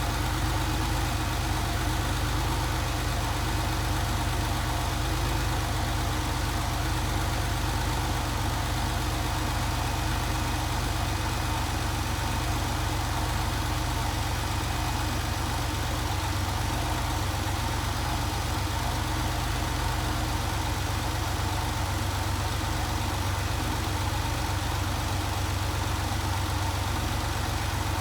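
Car engine idling steadily after a cold start, heard from outside the car.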